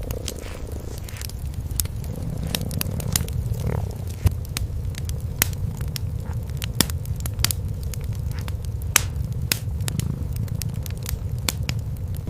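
A mother cat and kitten purring, a steady low pulsing purr, over a wood fire in a fireplace crackling with scattered sharp pops.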